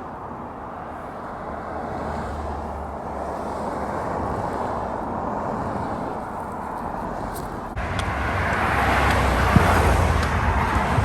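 Road traffic passing on a highway beside the walker: tyre and engine noise swells and fades, then, after an abrupt cut, a louder vehicle passes close, loudest about three-quarters of the way in.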